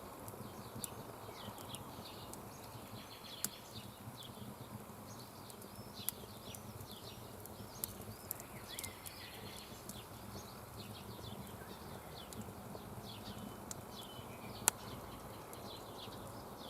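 Small birds chirping and calling over a steady hiss, with a few sharp isolated cracks from a campfire, the loudest near the end.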